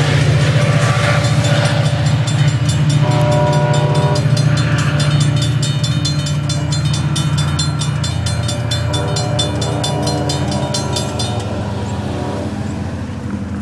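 An ACE commuter train's diesel locomotive rumbling past a grade crossing while the crossing bells ring rapidly, falling silent about eleven seconds in as the gates lift. A train horn chord sounds briefly about three seconds in and again, fainter, from about nine seconds.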